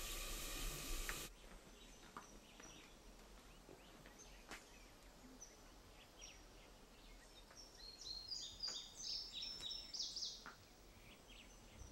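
A steady hissing noise cuts off about a second in, leaving quiet rural ambience. About eight to ten seconds in, a small bird sings a quick run of high chirps.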